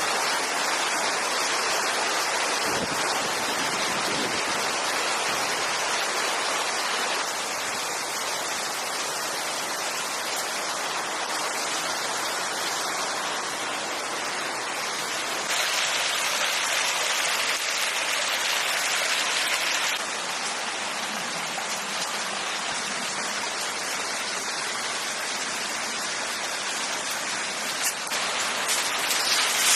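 Steady rain falling, a dense constant hiss that steps up or down in level a few times, with a few sharp drip-like ticks near the end.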